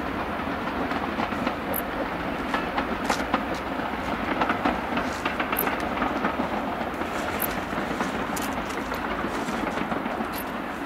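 Steam-hauled passenger train running along the line, a steady running noise with many irregular clicks from the wheels passing over the rail joints.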